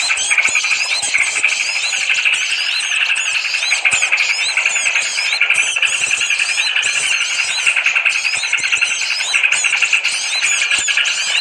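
A dense chorus of many small birds chirping and twittering rapidly over one another, a continuous high-pitched chatter. This is a bird-lure call ('suara pikat'), played to draw small birds in.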